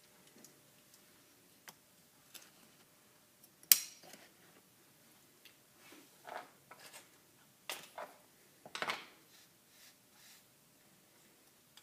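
Small tools and hard parts handled on a work surface: scattered light clicks and scrapes, with one sharp click about four seconds in and a cluster of clicks a few seconds later.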